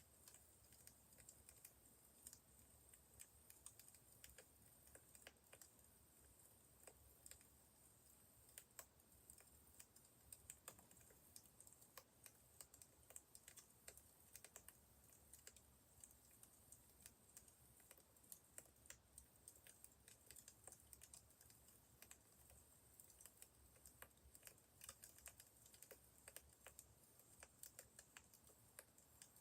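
Wood fire crackling softly: irregular small pops and snaps over a faint steady hiss.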